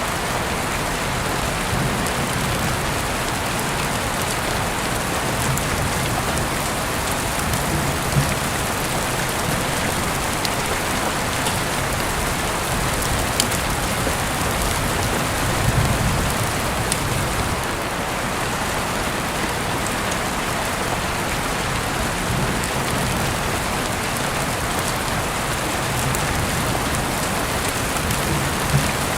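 Steady rain. A few short, low thumps come through it, the loudest about sixteen seconds in, along with scattered faint clicks.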